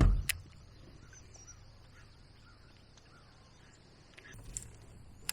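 A low thump at the start, then quiet outdoor ambience with faint bird calls and a couple of small clicks.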